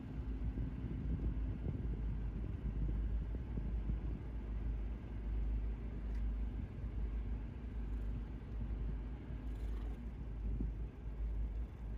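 Low, steady rumble of a large motor yacht's engines running slowly during docking, with a faint steady hum and wind buffeting the microphone.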